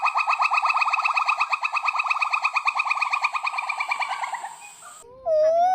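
A monkey's call: a rapid trill of short, pitched chirps, about ten a second, fading out after about four seconds. Near the end a long, steady wailing call begins.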